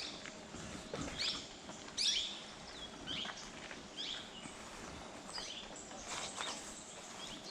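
Plum-headed parakeet calling: a series of short, sharp notes that drop in pitch, about one a second.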